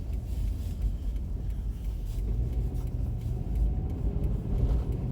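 Steady low rumble of a car driving on city streets, engine and tyre noise heard from inside the cabin.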